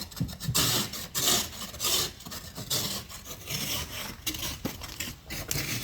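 Ice scraper rasping frozen ice off a car window in repeated strokes, about one and a half a second.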